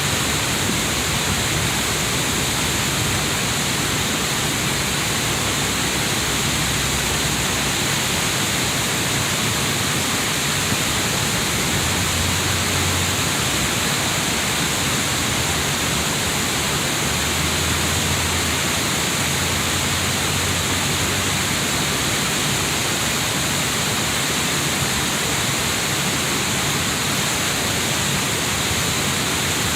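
Steady rush of water from a river waterfall, an even, unbroken hiss with no change in loudness.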